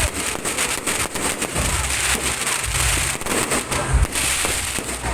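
Aerial fireworks display: a rapid run of crackling reports and pops, with heavier shell bursts booming about two seconds in and again near four seconds.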